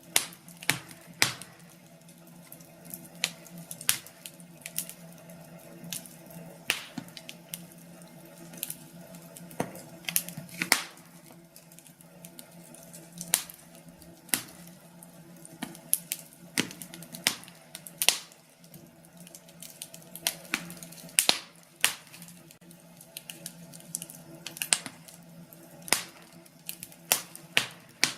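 Wood fire in a fireplace crackling, with sharp irregular pops every second or so over a steady low hum.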